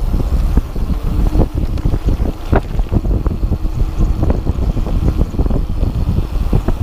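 Wind rushing over the microphone of a bicycle riding downhill, with many irregular knocks and rattles as the bike goes over rough ground.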